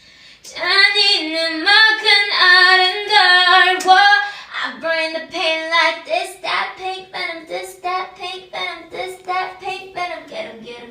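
A young female voice singing unaccompanied: long held notes for the first four seconds, then short repeated notes about twice a second that grow gradually quieter toward the end.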